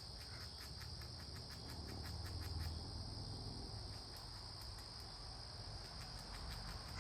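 Steady high-pitched drone of crickets or similar insects. Runs of rapid faint clicks, about six a second, come through in the first three seconds and again near the end.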